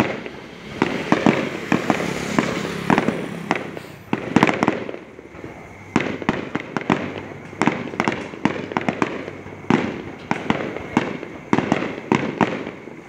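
Fireworks going off: an irregular run of sharp bangs and crackles, several a second at times, with a short lull about five seconds in.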